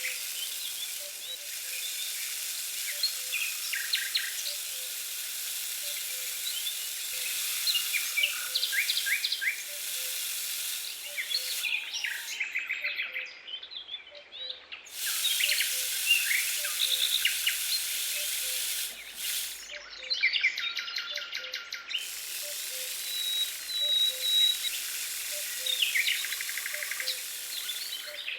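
Many small birds chirping and twittering over a steady high hiss. The hiss cuts off abruptly twice and comes back.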